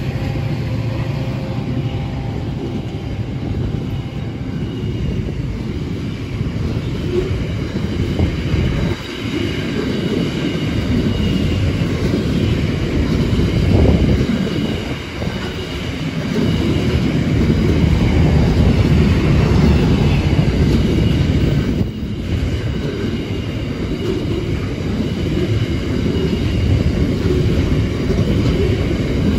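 Freight train's container wagons rolling past: a steady rumble of steel wheels on the rails, swelling and easing slightly as the wagons go by.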